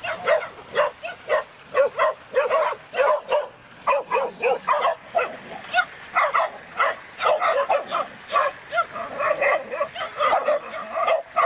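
Several dogs barking fast and without let-up, short yaps overlapping one another.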